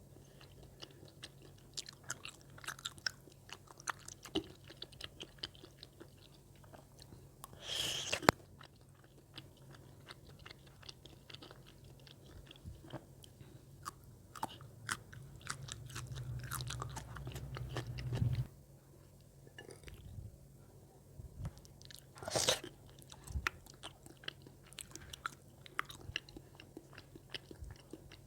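Close-miked chewing of spicy rice cakes (tteokbokki): a run of small wet mouth clicks and bites, with two louder bursts of noise, one about a third of the way in and one past the middle.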